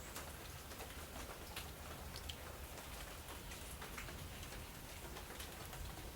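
Faint, irregular light clicks and ticks over a low hiss.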